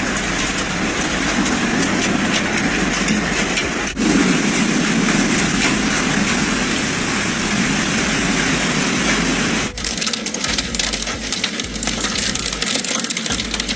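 Hail and heavy rain pelting down in a dense, steady hiss of countless impacts. The sound cuts abruptly twice, about four and ten seconds in. In the last stretch, separate hailstone strikes stand out as sharp clicks.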